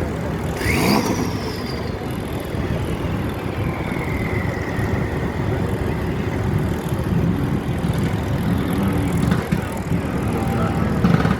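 Car engines running with a steady rumble. About a second in, something sweeps sharply up and back down in pitch, and a few seconds later a whine slowly falls in pitch as a car goes by.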